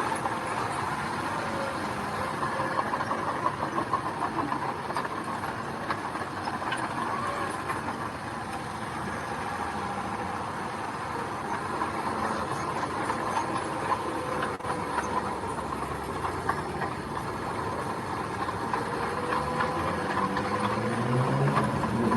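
Diesel engine of road-building machinery running steadily under a constant metallic clatter. Near the end the engine revs up, its pitch rising.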